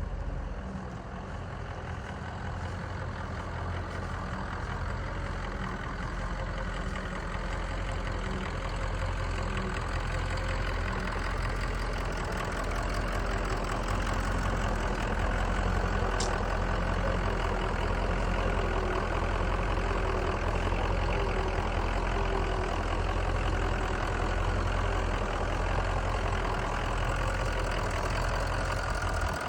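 Ford F-450 Super Duty dump truck's engine idling steadily, getting slightly louder over the first half.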